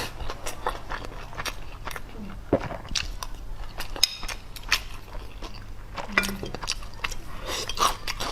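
Close-miked chewing of a mouthful of rice mixed with braising sauce: wet smacks and mouth clicks at an irregular pace, with a brief hum a little after six seconds.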